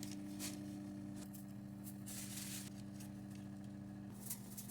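A steady low electrical hum with a few small clicks and short hissy scrapes; one tone of the hum stops about four seconds in.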